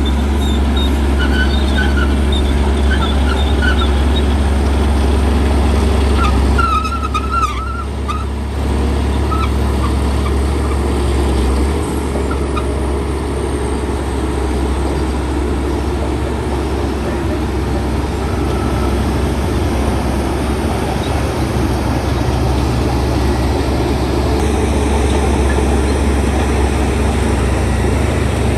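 Heavy diesel earthmoving machinery running steadily with a deep, continuous engine drone. A few brief high squeaks come through, most clearly about a quarter of the way in.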